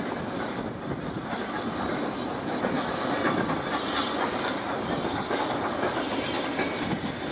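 Railway carriages rolling past close by, their wheels clattering over rail joints with a steady rumble.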